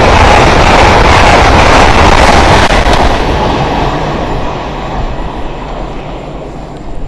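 A train passing through the station at speed: a loud rush of wheel and air noise that starts fading about three seconds in as the train draws away.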